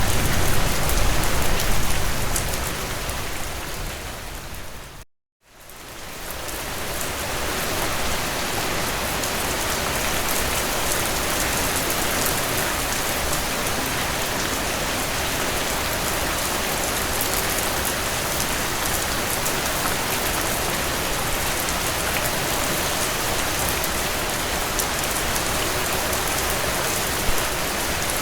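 Heavy rain falling on a tin roof, a steady hiss. A low rumble under the rain in the first few seconds dies away as the sound fades to a brief silence about five seconds in, then fades back up to steady rain.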